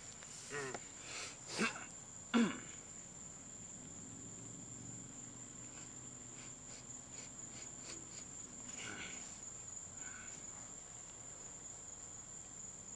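Insects chirring in a steady high-pitched drone. In the first few seconds there are three short, louder sounds that fall in pitch.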